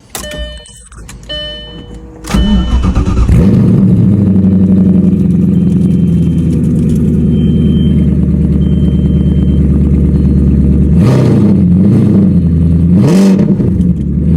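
Drift car's engine cold-starting: short beeps and clicks first, then it cranks and catches about two seconds in, flares up and settles into a steady fast idle. Two quick throttle blips rise and fall near the end.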